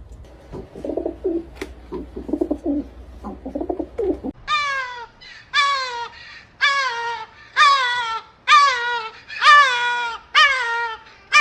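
Low cooing for about four seconds, then a run of loud, high calls that fall in pitch, about one a second, from an animal.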